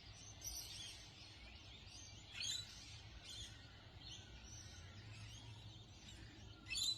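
A dawn chorus of wild birds: scattered short, high chirps and calls, some near and some further away, with louder calls about half a second in, about two and a half seconds in and at the very end.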